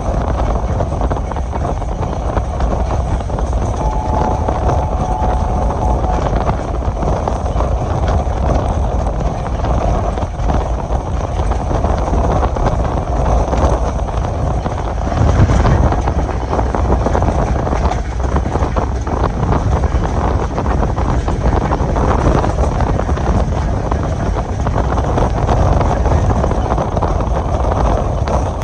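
Passenger train running along the line: a steady rumble of wheels on rails with rattling clatter from the track and wind noise. There is a louder jolt about halfway through.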